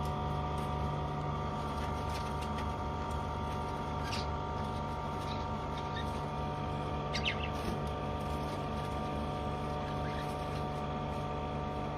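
Budgerigars giving a few short, high chirps, about four and seven seconds in, over a steady hum.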